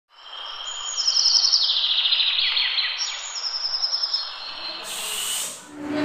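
Small birds chirping and twittering in fast runs of high, repeated trilled notes, with a short hiss about five seconds in.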